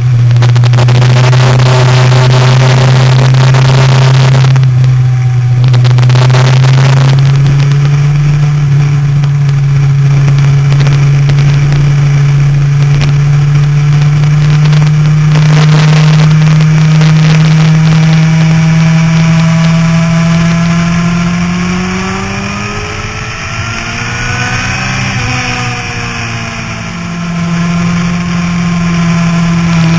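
Motorcycle engine ridden at speed on a track, with wind rushing over the camera's microphone. The engine note holds steady and slowly climbs, then about twenty-two seconds in it quietens while its pitch rises and falls before settling again.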